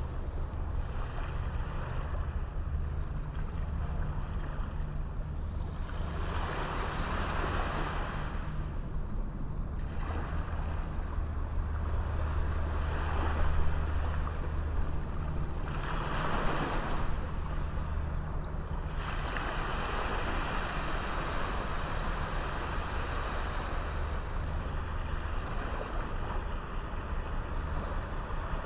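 Sea waves breaking and washing up a beach, the hiss of the surf swelling and falling every few seconds, over a steady low rumble.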